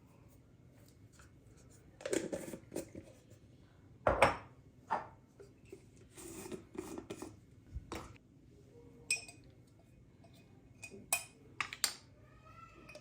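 Kitchen handling sounds: dishes and utensils knocking and clinking in a string of separate knocks, the loudest about four seconds in.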